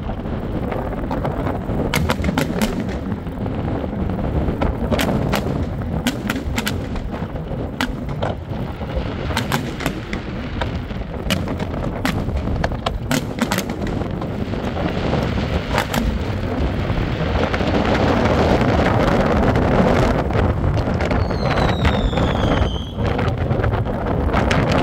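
Fireworks display: aerial shells bursting in a quick irregular run of sharp bangs and crackles, over a steady rumble of wind on the microphone. Near the end come two falling whistles.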